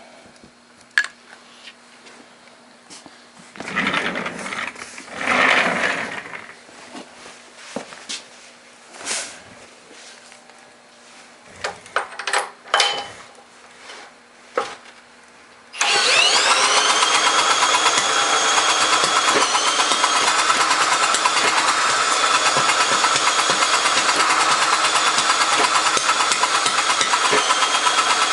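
Clicks and rustles of handling for about half the time, then a 1934 Briggs & Stratton Model A single-cylinder engine with a homemade muffler starts suddenly, quickly rises to speed and settles into a steady run.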